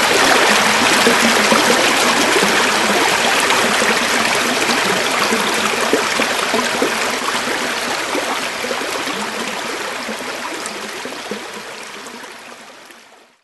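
A river flowing over stones, a steady rushing with bubbling and splashing. It fades out over the last few seconds.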